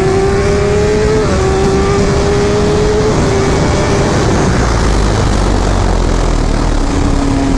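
A 1000 cc sport motorcycle engine accelerating hard through the gears, its pitch climbing and dropping back at upshifts about one and three seconds in. From about halfway, wind rushing over the microphone at speed covers most of the engine.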